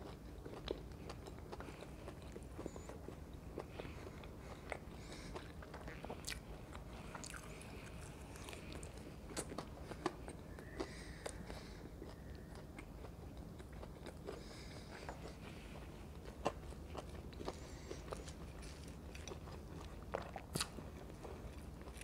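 Close-miked chewing of a crispy fried pakora, with many scattered small crunches and clicks.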